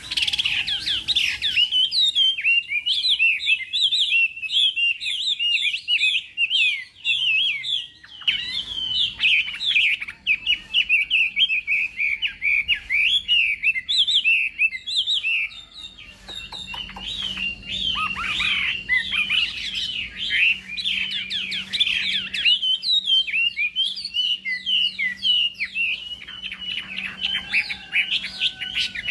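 Chinese hwamei (Garrulax canorus) singing a long, rapid stream of varied, clear whistled notes and trills, broken by a few brief pauses.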